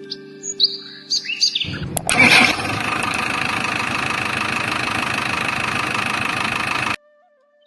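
A few quick bird chirps, then an engine starts with a loud burst about two seconds in and runs steadily for about five seconds before cutting off suddenly.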